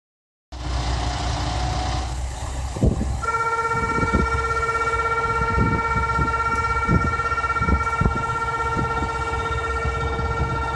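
JR Shikoku 2000 series diesel trains idling with a low engine rumble and scattered thumps. A steady, high electronic departure buzzer starts about three seconds in and keeps sounding, signalling the train is about to leave.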